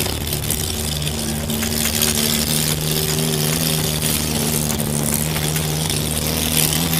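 Demolition derby car's engine running steadily, heard from inside the cockpit, with a constant hiss over a low hum.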